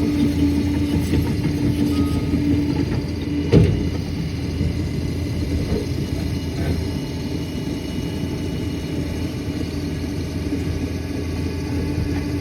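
Liebherr 746 crawler dozer's diesel engine running steadily, with one loud metallic clank about three and a half seconds in.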